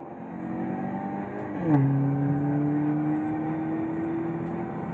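Car engine accelerating through the gears: its pitch climbs, drops sharply at an upshift under two seconds in with a short burst of sound, then climbs steadily again in the next gear.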